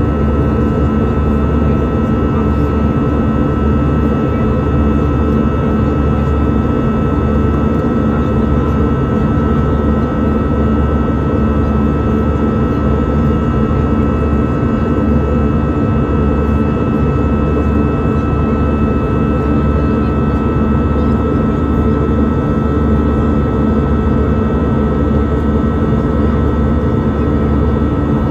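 Airliner engines and rushing air during the climb after takeoff: a steady drone with several constant whining tones, the clearest fairly high, that holds unchanged throughout.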